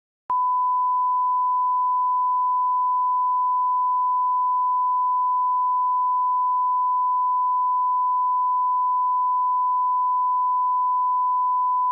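Steady 1 kHz sine-wave line-up tone at −18 dBFS reference level, starting with a faint click about a third of a second in and holding one unchanging pitch and level.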